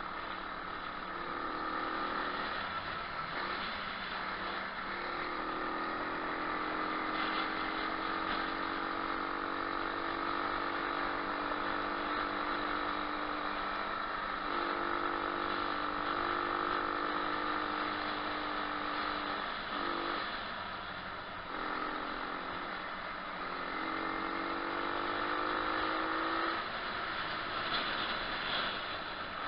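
Moto4 125cc pit bike's single-cylinder engine running under way, its note climbing and dropping several times as the throttle is opened and closed, with brief off-throttle dips about two thirds through.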